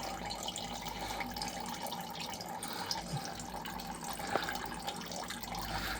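Faint steady trickle of engine oil running out under the car, with a single light tap a little over four seconds in.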